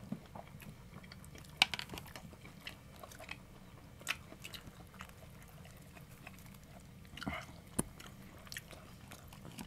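Two people chewing pizza, faint wet mouth sounds with scattered small clicks, a sharper one about one and a half seconds in and another near the end.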